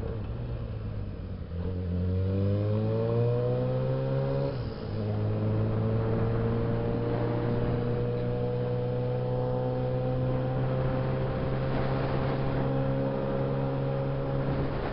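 Suzuki Bandit 650S inline-four engine accelerating, its pitch rising, then dropping briefly about five seconds in at a gear change before running steadily, climbing slowly as speed builds.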